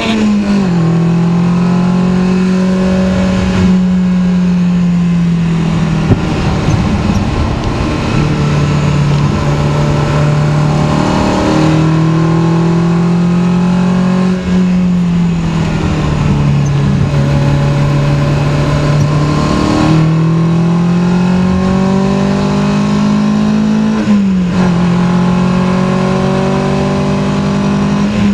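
Four-cylinder engine of a 1972 BMW 2002 tii rebuilt with race parts and twin Weber 45 DCOE carburettors, heard from inside the cabin under hard acceleration. The revs climb steadily and drop sharply at several gear changes, over road and wind noise.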